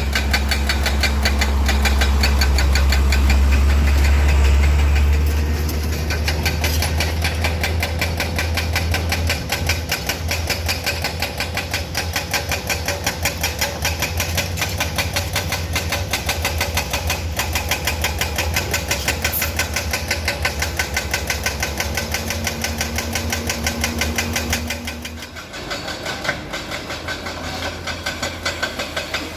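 Concrete mixer truck's diesel engine running with a fast, even clatter and a strong low hum, easing off about 25 seconds in.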